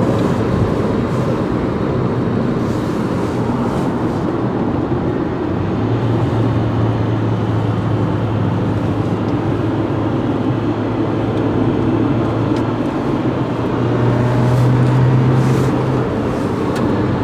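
Mitsubishi Lancer SE driving, with a steady engine drone over tyre and road noise. The engine note gets stronger about six seconds in and is loudest a little before the end.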